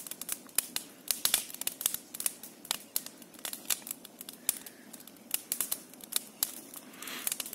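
Large bonfire burning and crackling, with many irregular sharp pops and snaps several times a second.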